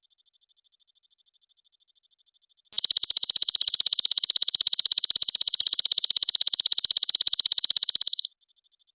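A recorded animal call for song tutoring: a high-pitched, rapidly and evenly pulsed trill, about twenty pulses a second. It comes in loud about three seconds in and cuts off sharply some five seconds later, with a faint copy of the same trill before and after it.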